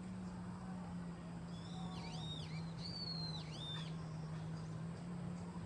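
A bird calling: a few clear whistled calls in the middle, each rising and falling in pitch, over a steady low hum.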